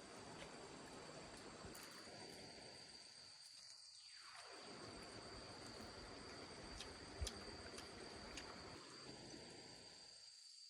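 Faint, steady high-pitched trilling of insects such as crickets over low background hiss, with a single light click about seven seconds in.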